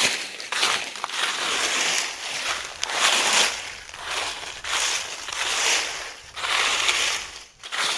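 Crunching, crinkling rustle of dry material, rising and falling in repeated swells about once a second.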